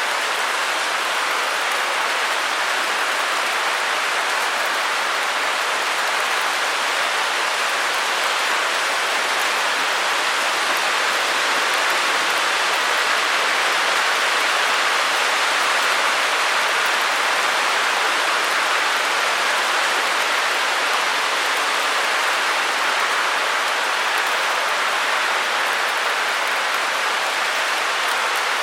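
A steady, even hiss of white noise with no drops, clicks or rhythm in it, strongest in the upper middle and thin in the bass.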